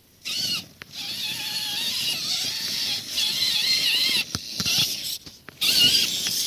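Radio-controlled scale crawler truck's electric motor and gearbox whining as it crawls over rough ground, the pitch wavering up and down with the throttle, with short breaks where it stops and starts again.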